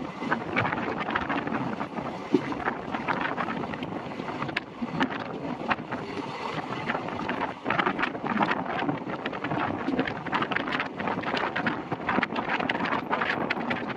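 Passenger train coach running along the track: steady rumble of wheels on rails with frequent irregular clicks and clatter, and wind buffeting the microphone held out from the moving coach.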